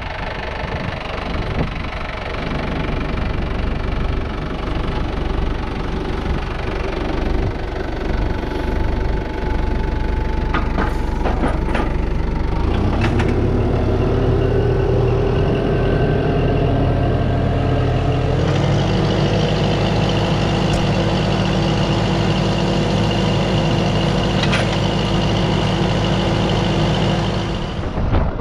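A motor vehicle's engine running steadily, its pitch stepping up twice, about 13 and 18 seconds in, as it picks up speed.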